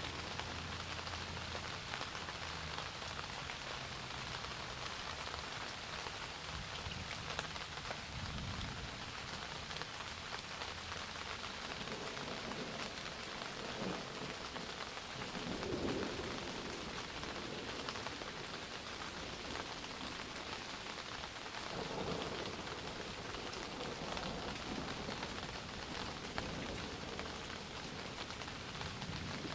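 Steady heavy rain falling and pattering on a surface, with thunder rumbling in the distance twice, once around the middle and again about two-thirds of the way through.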